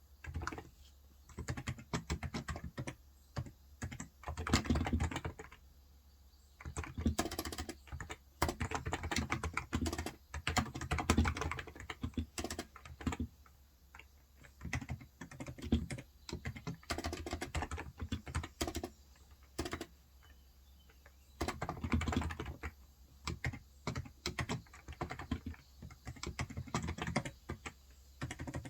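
Typing on a Cox Endeavour electro-capacitive tenkeyless keyboard with 35 g switches: quick runs of keystrokes in bursts, broken by brief pauses of about a second.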